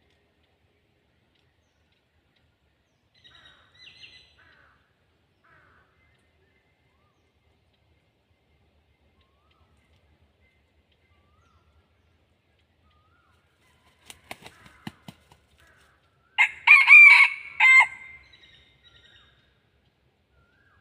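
Red junglefowl cock crowing once, a short loud crow of about a second and a half, about sixteen seconds in. A few sharp clicks come a couple of seconds before it, and faint softer calls sound around four seconds in.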